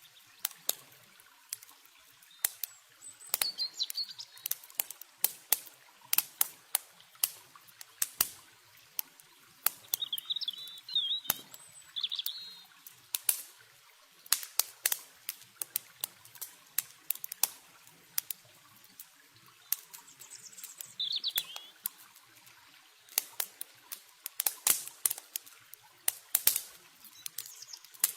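Campfire wood crackling and popping in irregular sharp snaps, with short bird chirps a few times, over a faint hiss of running water.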